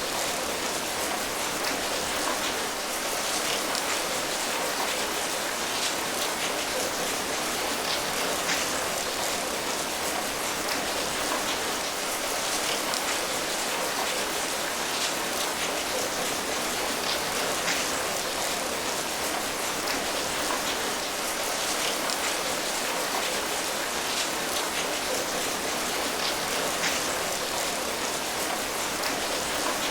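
Steady rain falling and pattering on a surface, a constant hiss with many small drop ticks.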